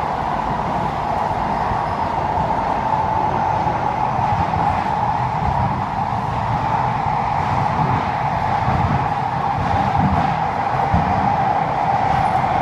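Kawasaki & CSR Sifang C151A metro train running between stations, heard from inside the car: a continuous low rumble under a steady whine, which sinks slightly in pitch near the end.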